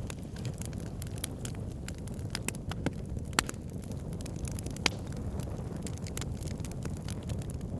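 Wood fire burning in a fireplace: a steady low rumble of flames with irregular small crackles and snaps, and two louder pops about three and a half and five seconds in.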